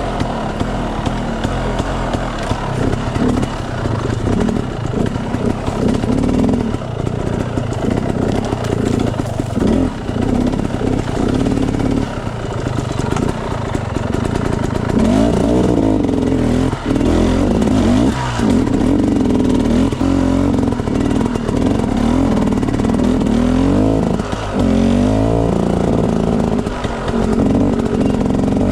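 Enduro dirt bike engine running on a trail ride, its revs rising and falling over and over, with several quick rev-ups in the second half.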